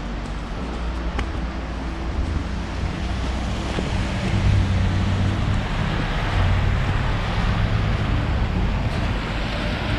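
Steady rushing noise of wind and road traffic, with a low vehicle engine hum that grows louder from about four seconds in.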